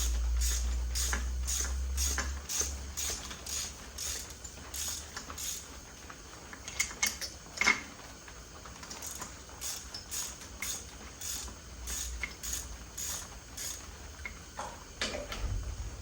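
Hand ratchet wrench clicking in short repeated strokes, about two clicks a second, while bolts on a Honda K20 engine's side mount bracket are turned. A low hum sits under it in the first couple of seconds.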